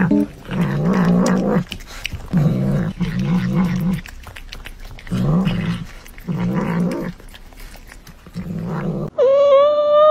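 A cat making low, wavering growls in about six short bursts, then one long, loud meow near the end.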